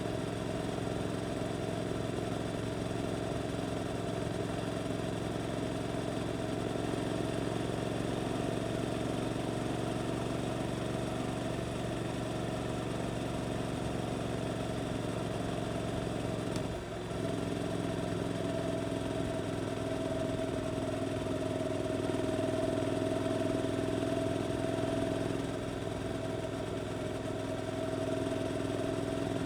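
Suzuki GSX-8S's 776 cc parallel-twin engine running steadily under way through an Arrows aftermarket exhaust. The note drops and breaks briefly just past halfway, then carries on steady at a slightly different pitch.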